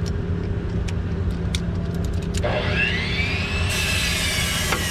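Steady low mechanical hum of an engine running nearby. About two and a half seconds in, a high wavering whine comes in, dipping and rising, and a hiss joins it shortly after.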